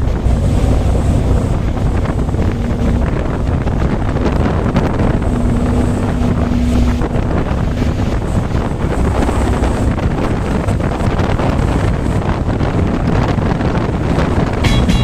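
Ferry running under way: a steady low engine drone and rumble, with heavy wind buffeting the microphone.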